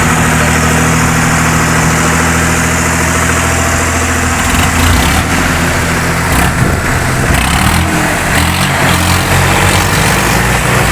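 Tractor diesel engines running loud and steady under the load of a tochan tug-of-war pull; the engine note shifts and turns rougher about four to five seconds in.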